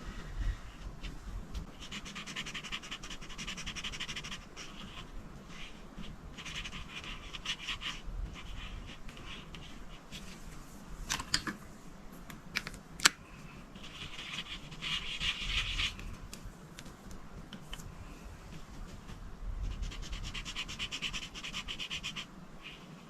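Coloring strokes scratching across paper in bursts of a second or two, with a couple of sharp clicks a little past the middle.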